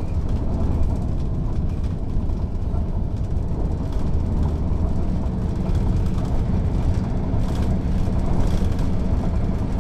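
Mercedes-Benz O 407 city bus with its rear-mounted inline-six diesel running steadily: an even, deep drone with no sudden changes.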